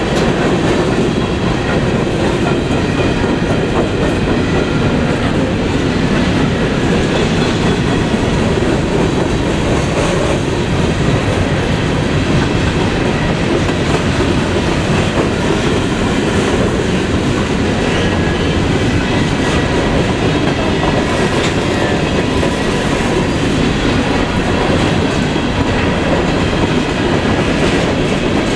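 Freight train cars rolling past on the rails, a steady loud rumble of wheels on track.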